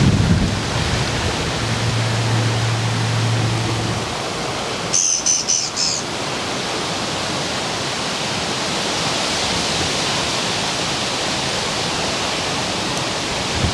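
Wind blowing through the leafy branches of a Korean fringe tree, a steady rustling hiss, with gusts buffeting the microphone at the start and again at the end. A low steady hum runs briefly about two seconds in, and a short high-pitched trill comes about five seconds in.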